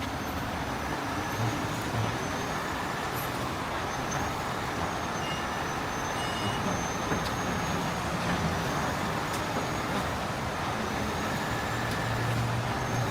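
Heavy-duty rotator tow truck's diesel engine running steadily under a constant noisy hiss, its low hum growing stronger near the end.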